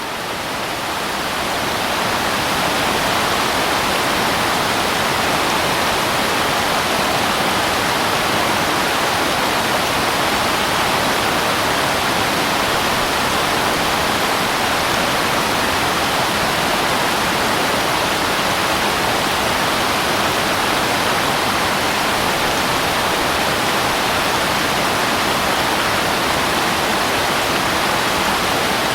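Waterfall: a steady, dense rush of falling water that fades in over the first couple of seconds, then holds even.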